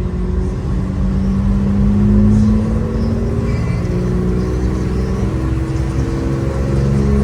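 Car engine running at low speed in slow traffic, its pitch rising about two seconds in and the engine growing louder near the end.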